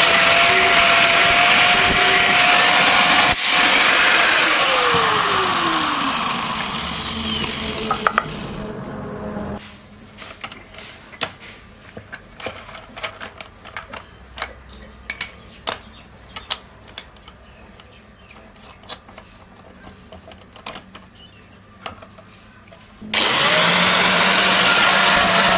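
An electric power tool runs loud with a steady whine. It is switched off about four seconds in and its motor winds down, falling in pitch over several seconds. Light clicks and taps follow, and near the end the tool starts up again, its whine quickly rising back to speed.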